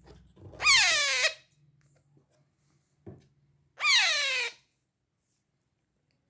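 Baby parrot chick calling twice, about three seconds apart. Each call is a loud, harsh cry that falls in pitch.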